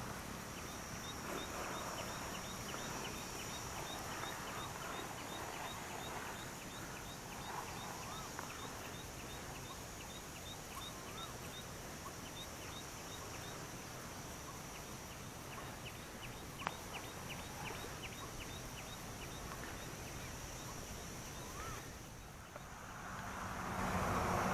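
Faint farmland ambience: a steady high insect drone with a regular ticking chirp about three times a second, a few faint bird calls, and one sharp click about two-thirds of the way through.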